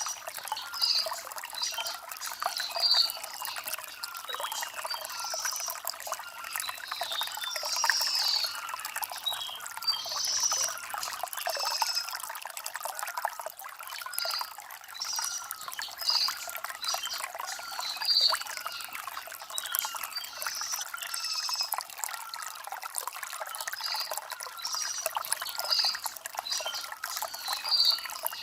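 Shallow stream water trickling and babbling over river stones, with birds chirping in short bursts every second or two.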